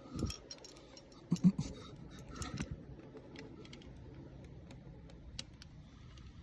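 Scattered light clicks and small metallic rattles of hand work on a motorcycle, parts and tools being handled, busiest in the first three seconds.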